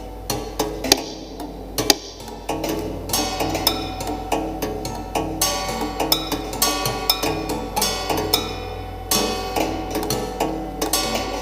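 Stripped-down upright piano with no keys or hammers, its strings sounded by mechanical devices fitted inside it: a dense, irregular patter of mechanical clicks, each followed by ringing piano-string notes.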